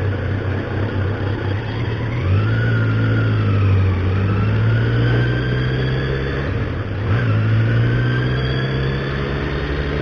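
Motorcycle engine accelerating through the gears. The pitch jumps up about two seconds in and climbs, then dips at a gear change about seven seconds in before climbing again.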